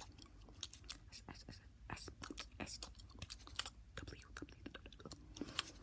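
Fast, aggressive ASMR mouth sounds: a rapid, irregular stream of clicks and smacks.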